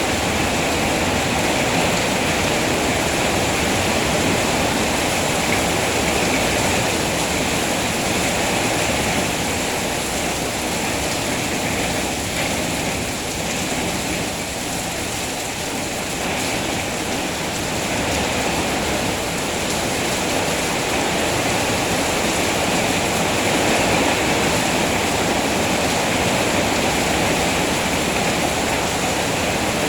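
Steady rain falling, an even rushing hiss, easing slightly for a few seconds about halfway through.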